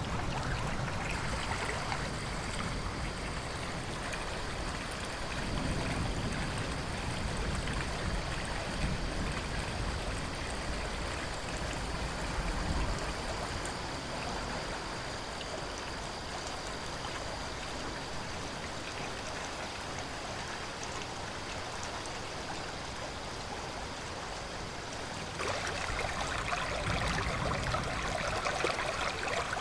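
River or stream water rushing and gurgling in a steady wash of noise. About 25 seconds in, the sound abruptly gets louder and brighter.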